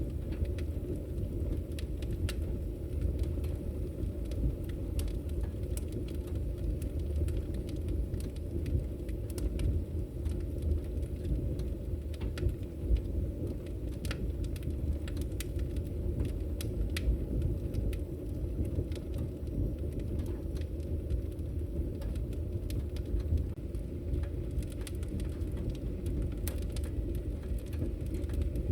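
Wood fire in a fireplace crackling: frequent sharp pops and snaps of burning logs over a steady low rumble of the flames.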